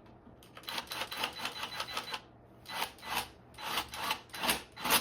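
Hex key scraping and slipping in the head of a brake screw as it is turned: a quick run of rasping scrapes, then about half a dozen separate, louder ones. The key is stripping the screw, which takes a star (Torx) bit rather than a hex.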